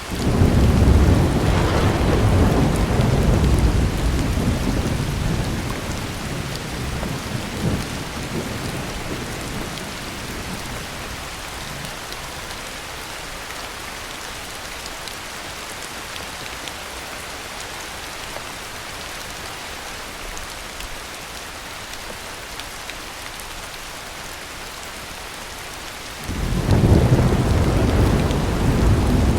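Heavy, steady rain with two rolls of thunder. The first rumbles in right at the start and fades away over about ten seconds; the second breaks out near the end.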